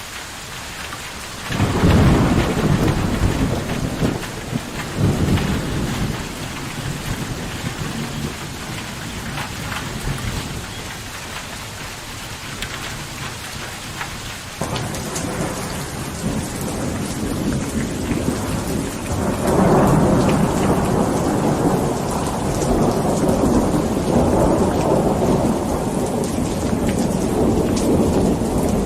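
Steady heavy rain with rolls of thunder: a rumble about a second and a half in that fades over several seconds, a smaller one near five seconds, and a longer, louder rumble from about two-thirds of the way through to the end.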